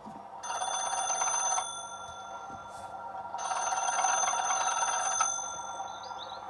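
Telephone bell ringing twice, two rings a couple of seconds apart: a sound effect of the call to the signalman.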